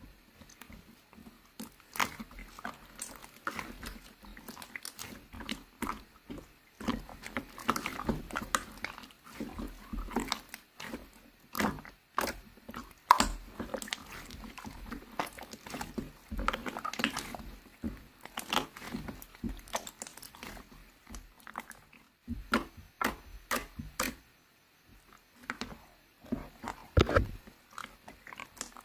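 Chewing and crunching: irregular sharp clicks and crunches in spurts, with short pauses between them and a near-quiet break near the end.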